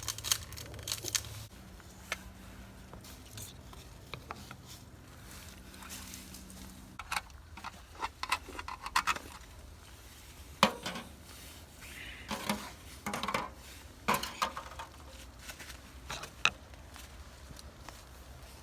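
Utensils clinking and scraping against cookware and dishes in a string of irregular clicks and short scrapes, busier in the second half, over a low steady hum that stops about seven seconds in.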